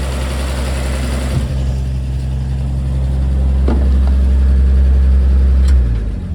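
1950 Chevrolet 4400 dump truck's Stovebolt inline-six idling steadily, warm after its first run in years, then switched off near the end and running down to a stop.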